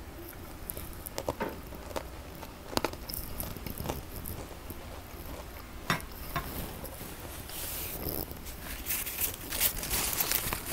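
Close-up chewing of a crunchy Pepero biscuit stick, with scattered crunches. From about three-quarters of the way in, a paper tissue crinkles and rustles as it is pressed to the mouth.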